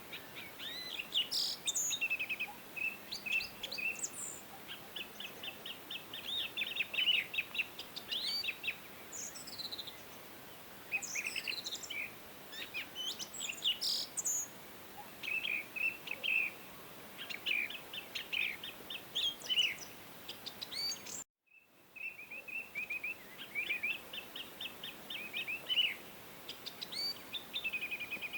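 Several songbirds chirping and singing, with quick repeated trills and short whistled notes over a faint background hiss. The sound cuts out abruptly for about half a second roughly three quarters of the way through, then the birdsong resumes.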